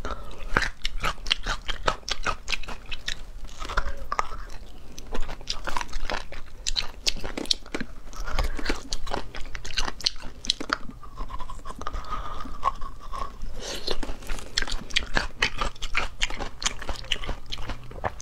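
Close-miked mouth sounds of eating braised beef bone marrow: wet chewing and sucking, with many sharp smacking clicks throughout.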